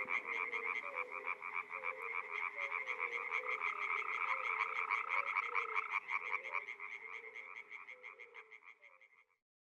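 A chorus of frogs calling in fast, pulsing trills, several voices overlapping, with lower chirping calls beneath. It fades out near the end.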